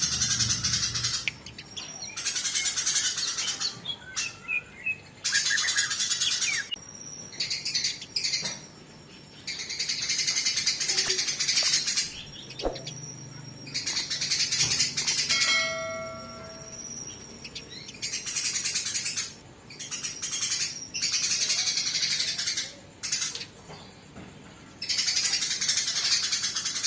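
Eurasian tree sparrows fighting: repeated bouts of dense, harsh chattering, each a second or two long with short breaks between. A brief whistled note with overtones comes about halfway through.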